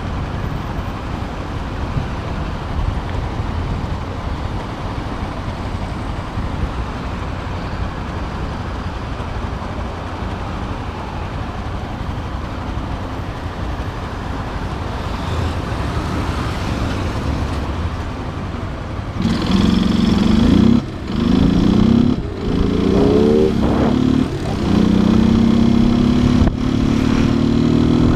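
Motorcycle riding in city traffic: about two-thirds of the way through, steady road and wind noise gives way to a louder engine note. The engine climbs in pitch several times with short breaks as it accelerates up through the gears.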